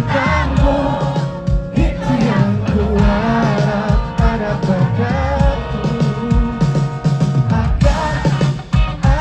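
A rock band playing live with a male lead singer, drums, bass and guitars over a steady beat; the crowd can be heard faintly singing along.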